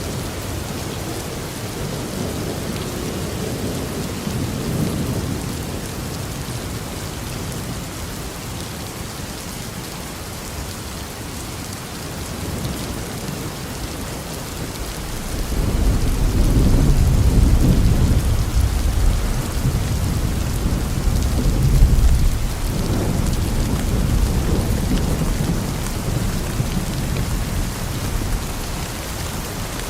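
Steady rain with rolling thunder: low rumbles swell near the start and again about halfway through, with a loud peak a few seconds later.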